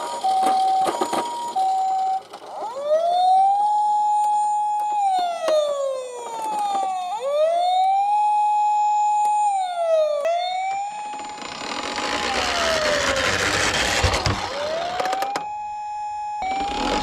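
Siren sound for toy emergency vehicles: a hi-lo two-tone ambulance siren for the first two seconds, then a wailing siren that rises, holds and falls about every four seconds. A rushing noise joins in about two-thirds of the way through, breaks off briefly, and returns near the end.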